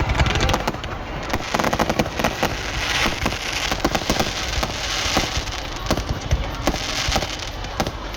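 Fireworks and firecrackers going off in a dense run of sharp cracks and pops, with thicker spells of crackling about three and five seconds in.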